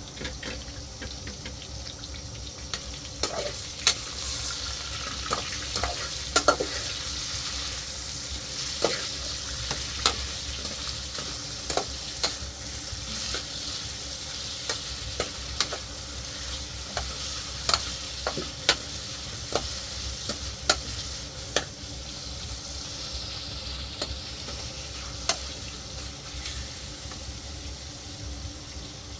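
A steady sizzling hiss with scattered sharp pops and clicks, a few every second or two.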